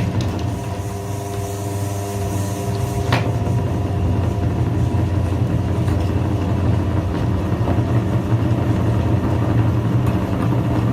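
Electric kitchen grinder motor running steadily, with a sharp click about three seconds in.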